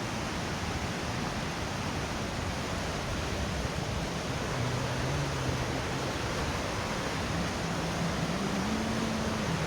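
Steady rushing of falling water from the Putna waterfall, an even hiss with no breaks. A faint low tone comes in about halfway through.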